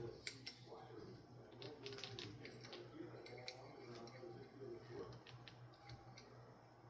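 Faint scattered clicks and light taps from handling the parts of a ceiling fan light kit, over a low steady hum.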